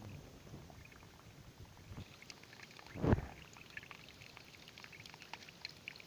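Clear water trickling and splashing in small droplets, with one louder thump about halfway through.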